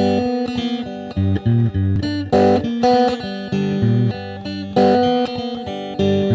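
Guitar music, with plucked notes over a low bass line and a few strummed chords.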